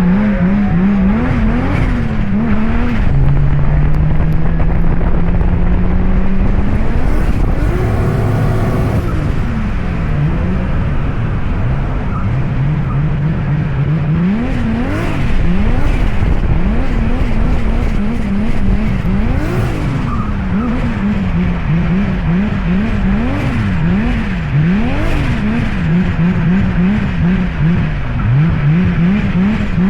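Turbocharged 2JZ engine in a drifting Genesis Coupe, revved hard with its pitch swinging up and down about once a second as the throttle is worked through the run. It holds a steadier pitch for a few seconds near the start and again around the middle, over constant tyre and road noise.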